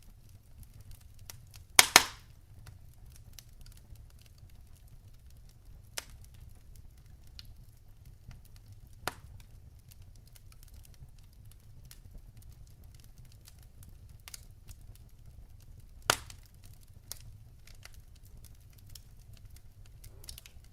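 Logs burning in a fireplace, crackling with scattered small ticks over a low steady rumble of the flames. A loud double pop comes about two seconds in, and a few sharper single pops follow later.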